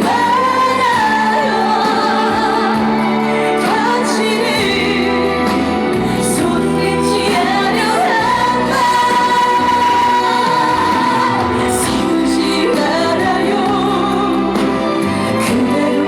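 A woman singing a slow song live over band accompaniment, with long held notes and vibrato.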